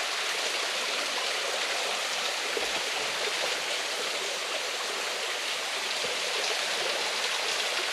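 Steady rush of water falling over a waterfall on a small creek.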